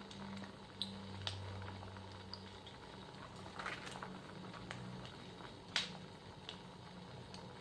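Wood fire crackling: irregular sharp pops and snaps, a few louder ones about a second and a half in, around four seconds and near six seconds, over a low steady hum.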